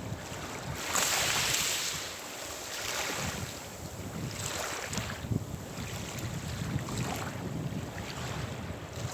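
Sea waves breaking and washing in surges of hiss, the loudest about a second in, with wind rumbling on the microphone.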